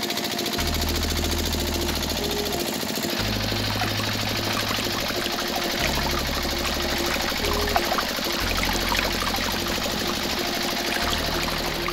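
Water pouring from a miniature pump's spouts into a small bucket and splashing, over the steady hum of the small electric motor that drives the pump.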